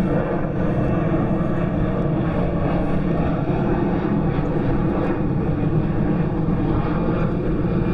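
Airplane flying overhead out of sight, its engine a steady, continuous drone.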